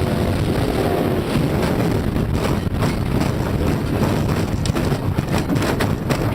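Wind buffeting the microphone on a boat out on the water, a steady rushing noise with low rumble and frequent short knocks.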